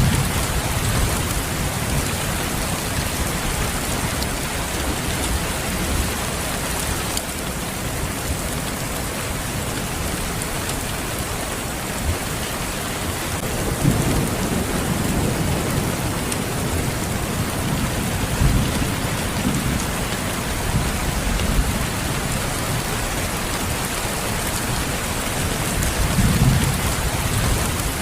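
Steady, heavy rain, with low thunder rumbling in several times: at the start, twice in the middle and near the end.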